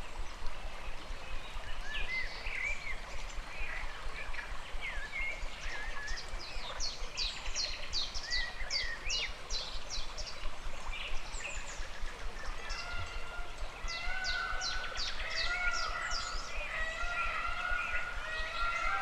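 Several birds singing and calling over the steady rush of a flowing stream. Among them are two runs of quick, high, descending notes, one a third of the way in and one near three quarters. In the second half, lower drawn-out calls join in.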